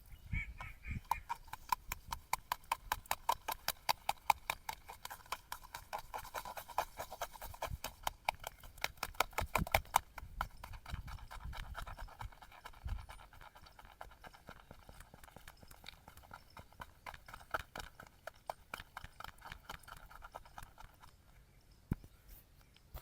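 Straight razor scraping through lathered stubble in quick, short strokes, several a second. The strokes are loudest for the first ten seconds or so, then grow softer and sparser.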